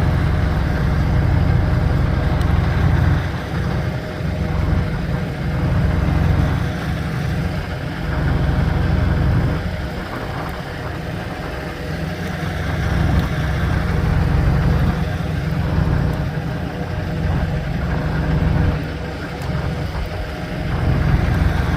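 An idling truck engine: a steady low rumble with a constant hum above it, swelling and easing slightly in level.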